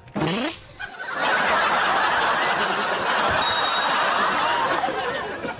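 Studio audience laughing, building about a second in and holding for around four seconds before dying down.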